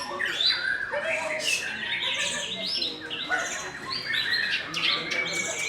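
Many caged songbirds singing at once in competition: a dense tangle of overlapping whistles, chirps and fast trills from several birds.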